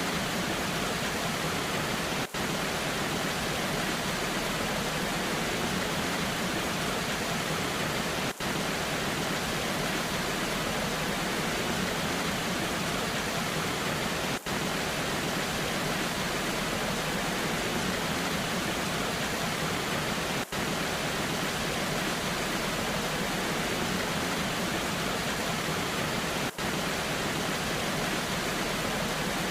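Waterfall rushing in the rain: a steady, even rush of water, broken by a brief dropout about every six seconds.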